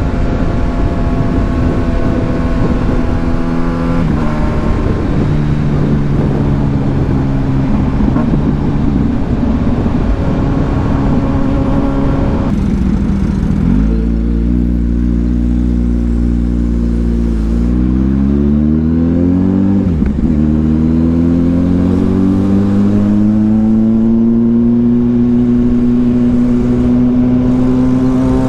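Kawasaki Ninja 1000SX inline-four with an aftermarket AR exhaust, heard while riding over a constant wind rush. The revs step down twice and the engine sits low for a few seconds about halfway through. It then pulls away with two short rising revs broken by quick upshifts, and climbs gradually into a steady cruise.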